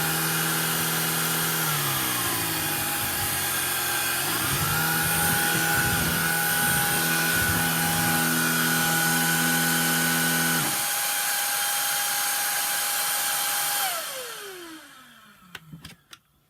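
Shark IZ300UKT vacuum cleaner running on test with its reassembled power nozzle: a steady high whine with a lower hum under it. The lower hum sinks away about two seconds in, comes back up about four and a half seconds in, and cuts off about ten and a half seconds in. Near the end the whole machine is switched off and winds down. This is a test run after reassembly, and the vacuum works.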